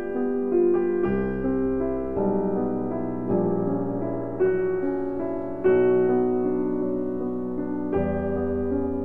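Background piano music: a slow melody of single notes struck about every half second to a second, over low bass notes.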